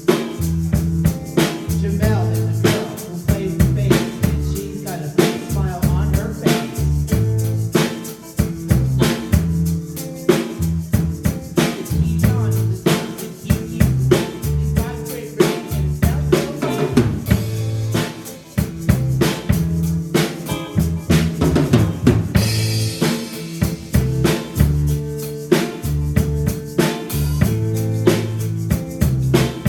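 A live rock band playing, led by a full drum kit with snare and bass drum hits over a steady beat and a moving bass line.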